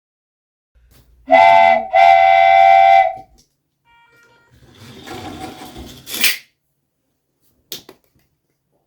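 A train whistle sounding twice, a short blast then a longer one, followed by a rising hiss that cuts off sharply and a single click.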